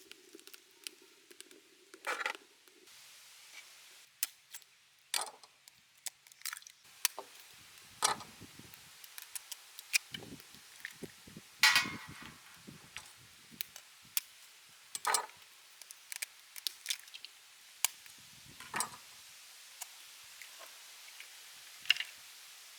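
Irregular clicks, taps and soft knocks of kitchen handling, a bowl and utensils being worked while boiled chicken gizzards are mixed with seasonings. A faint steady hum stops about three seconds in.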